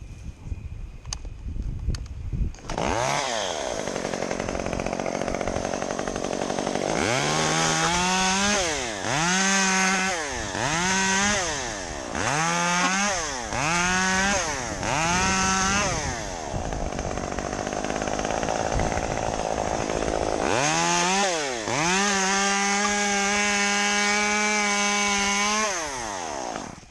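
Chainsaw motor coming in about three seconds in, revved in six quick up-and-down bursts, then held at high revs for a few seconds before dropping back near the end, as when cutting palm fronds.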